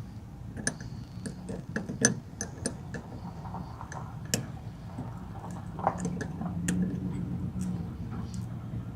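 Irregular small clicks and taps of hands working the plastic quick-connect fuel line fitting on top of a truck's fuel pump module, over a steady low hum.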